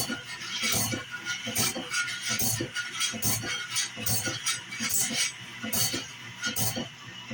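Wood-Mizer BMS250MU CBN band saw blade sharpener working through a blade tooth by tooth: a sharp metallic clack repeats a little under once a second as each tooth is indexed and ground, over the steady run of the machine.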